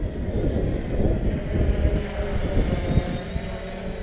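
3DR Solo quadcopter's propellers humming in flight, with gusty wind buffeting the microphone.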